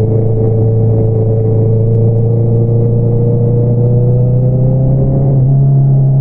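2022 Honda CBR650R's inline-four engine through an Akrapovič single-outlet exhaust, running under way with a steady note that rises slowly in pitch, then steps up about five seconds in.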